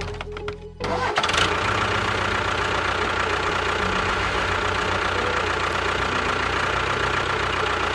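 A motor or engine starts up about a second in and then runs steadily and evenly, with a constant whine over a rapid low pulsing.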